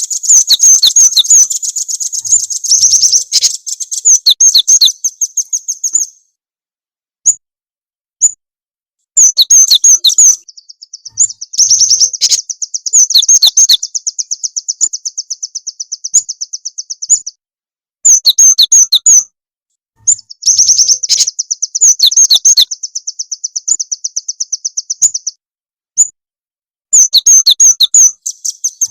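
Recorded song of cinereous tits (gelatik batu) and velvet-fronted nuthatches (rambatan), used as a lure call for songbirds. The recording has bursts of high-pitched rapid chirps in phrases of a few seconds with short pauses between them, and twice a long, even, rattling trill that lasts several seconds.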